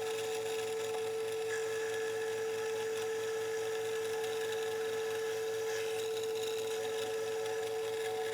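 A shop machine's motor running steadily, with a constant hum and a fast, even low pulsing beneath it.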